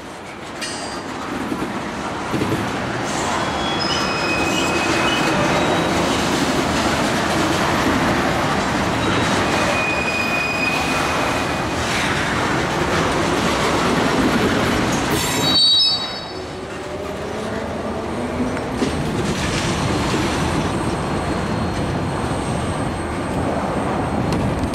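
Freight train of tank cars and a covered hopper rolling past, wheels rumbling on the rails with several brief high wheel squeals. The sound drops sharply about 16 seconds in as the last car goes by, and the train is then heard rolling away.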